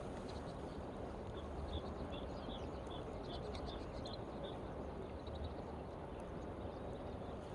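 A bird calling a quick run of short, high chirps, a few more coming near the end, over a steady rushing outdoor noise.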